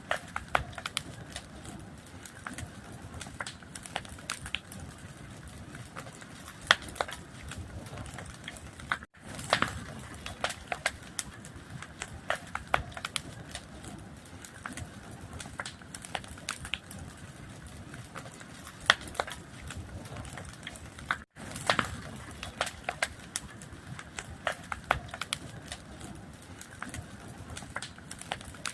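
Fire crackling and popping: irregular sharp pops over a steady low rush of flame. The sound cuts out for a split second twice.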